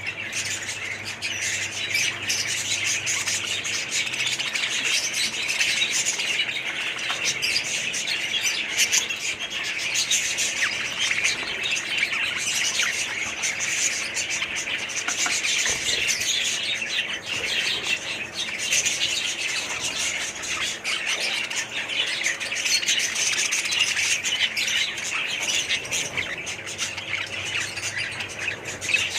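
Many small pet birds chattering at once: a steady, unbroken mass of overlapping chirps and squawks.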